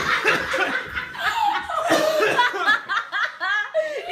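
People laughing, with voices mixed in; in the second half one laugh breaks into a quick run of ha-ha pulses.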